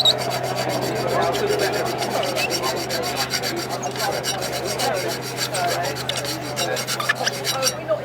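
A hand file rasping in quick repeated strokes on a metal compressor blade of a Bristol Olympus 301 turbojet, dressing out nicks left by ingested stones. The filing stops shortly before the end.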